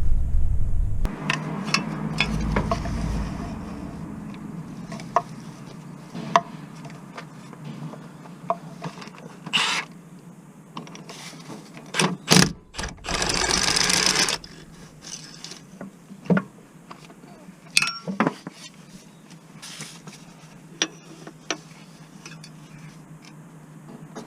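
Workshop-style clicks and knocks of tools and parts being handled during work on a car, irregular and scattered. A low rumble stops about a second in, and a short hiss lasting about two seconds comes just past the middle.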